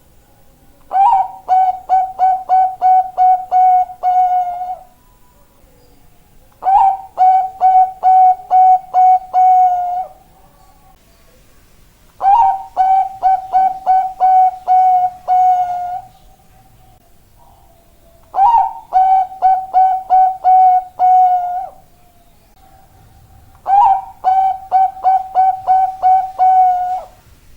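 Zebra dove of the Bangkok strain (perkutut bangkok) singing: five cooing phrases about five and a half seconds apart, each a short higher opening note followed by a quick run of about eight clipped coos on one pitch.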